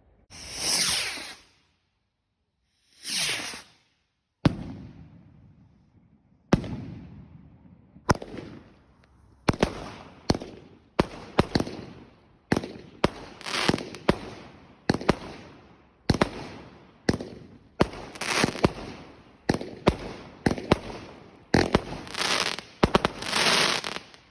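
Fireworks going off: two short rushing hisses in the first few seconds, then sharp bangs, each trailing off into a fading crackle. The bangs come about every two seconds at first and faster from about ten seconds in, overlapping in a dense barrage near the end.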